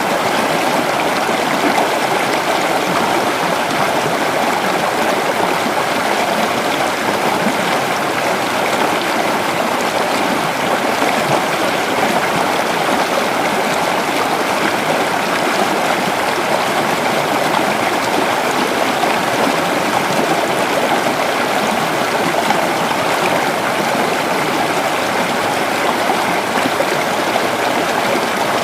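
Creek water flowing and babbling over rocks in a steady, even rush.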